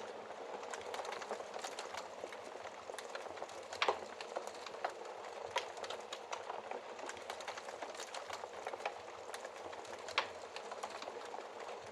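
Wood fire crackling in a fireplace: a dense, steady patter of small crackles with two louder pops, about four seconds in and near the end.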